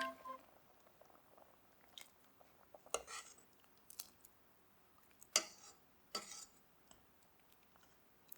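A few faint, separate clinks and scrapes of a utensil against a cooking pot, about one a second, as blocks of Japanese curry roux are stirred into the simmering curry.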